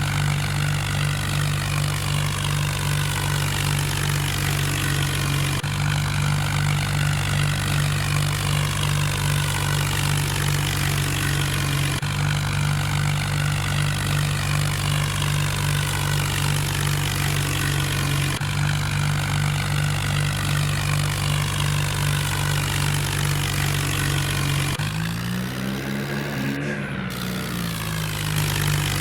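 Tractor engine running at a steady speed. Near the end its pitch drops and then climbs back up.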